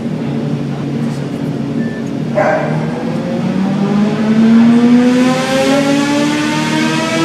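2008 Suzuki GSX-R750's inline-four engine running on a dynamometer, its pitch climbing steadily from about three seconds in as it revs up through a dyno pull. A short sharp burst of noise cuts in about two and a half seconds in.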